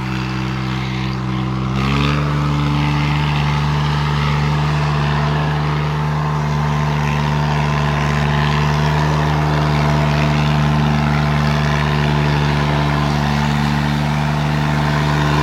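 Mini four-wheel-drive tractor's engine running hard under load as it works in sand, the revs stepping up about two seconds in and then held steady.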